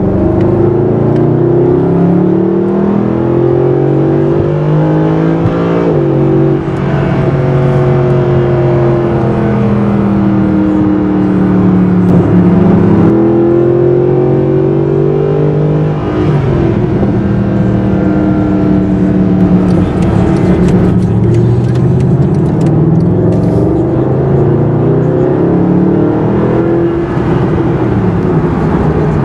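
Mercedes-Benz SLS AMG's 6.2-litre V8 running hard under acceleration. Its loud engine note climbs in pitch and drops back several times.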